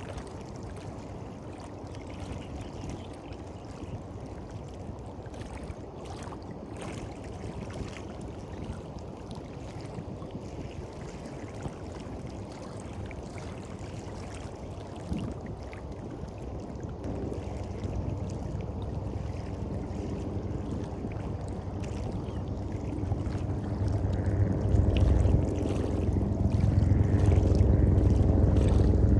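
Waves washing on the shore, then from about midway a low engine drone that grows steadily louder as it approaches.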